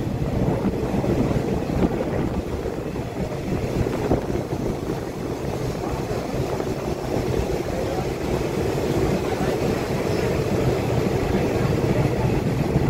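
Passenger train running, heard from on board: a steady low rumble of the wheels on the rails and the moving carriage, with some wind on the microphone.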